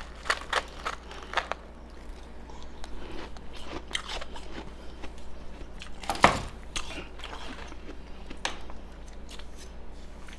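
Ice being bitten and chewed close to the microphone: sharp crunching cracks, many in the first second and a half, then softer chewing, with the loudest crunch about six seconds in.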